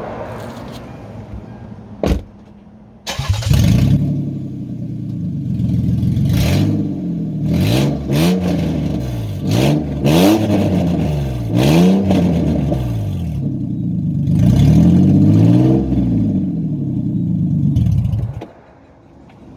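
2001 Lexus RX300's 3.0-litre V6 running with no exhaust past the manifolds, its catalytic converters removed, so it is loud and raw. A sharp click comes about two seconds in; the engine starts about three seconds in, is revved up and down several times, and shuts off shortly before the end.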